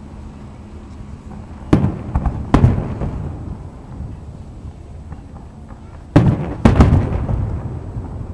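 Aerial fireworks shells bursting: three sharp bangs about two seconds in, then another cluster of bangs about six seconds in, each trailing off in a low rolling rumble.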